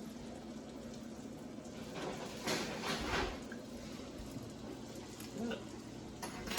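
Steady sizzle of cicadas frying in butter in a pan, with a short run of crunchy chewing sounds about two and a half to three seconds in as a cooked cicada is bitten into.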